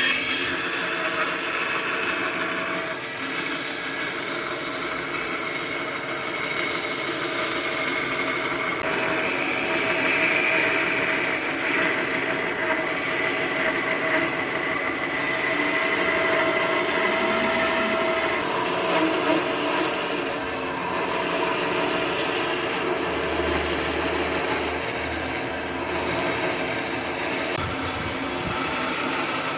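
A handheld power tool running steadily on wood: an unbroken hiss with a faint steady whine that keeps up without a pause.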